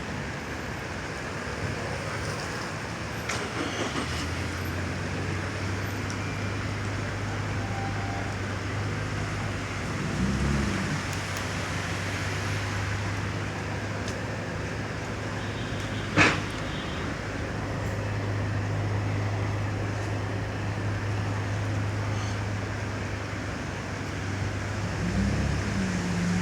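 Traffic on a wet city street: a steady hiss of tyres and rain under a vehicle engine's low, steady hum. A single sharp knock about two-thirds of the way through.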